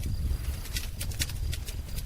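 Wood fire crackling: an irregular run of sharp pops and snaps over a low rumble of burning.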